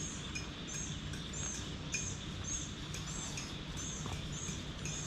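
A bird repeating a short, high chirp about every half second, over a steady low background hum of outdoor noise.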